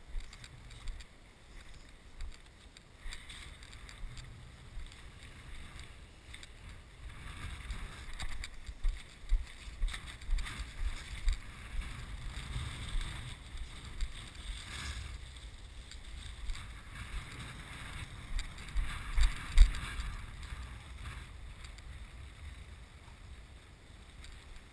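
Strong gusty wind buffeting the camera microphone, rumbling in uneven gusts that build and peak about two thirds of the way through, then ease off.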